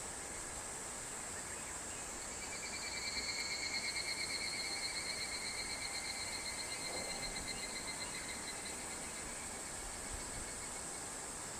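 A higurashi (evening cicada) calling: a rapidly pulsed, high ringing trill that starts about two seconds in, swells, then slowly fades away over several seconds. Beneath it runs a steady high-pitched hiss.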